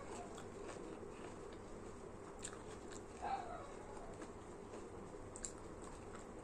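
Close-up eating sounds: chewing with scattered soft mouth clicks and smacks, and a brief pitched sound about three seconds in.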